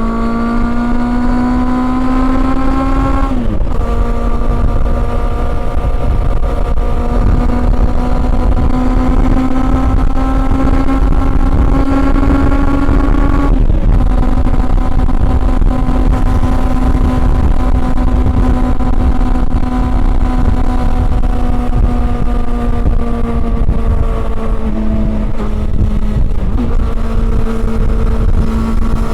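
Honda CB400 Super Four's inline-four engine under way. Its note climbs, drops sharply at an upshift a few seconds in, then climbs again for about ten seconds until a second upshift. After that it holds and slowly eases off, with a short dip and blip of the throttle near the end.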